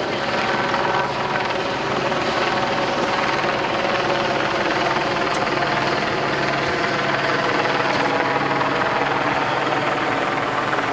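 Helicopter running steadily, a continuous loud drone of rotor and engine with an even, unchanging pitch.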